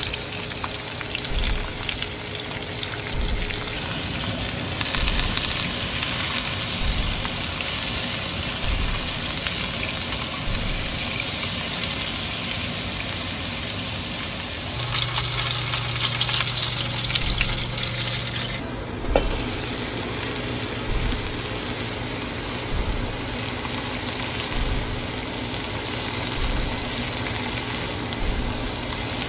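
Porterhouse steak sizzling in a hot pan, then sliced onions and mushrooms sizzling as they are sautéed and turned with tongs. A steady hiss of frying throughout, with a low hum joining about halfway and a single click shortly after.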